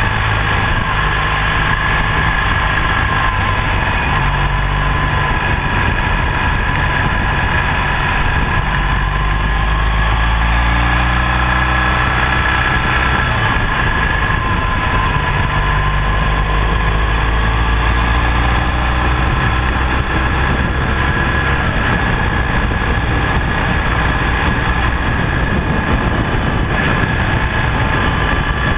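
BMW R1200GS boxer-twin motorcycle engine running while the bike is ridden, over a steady low rumble; the engine note rises and falls in places.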